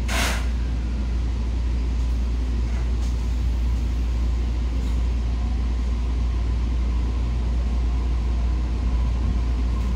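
JR Kyushu 819 series DENCHA electric train running between stations, heard from inside the car: a steady low rumble of wheels on rail with a faint steady whine. A short hiss comes right at the start.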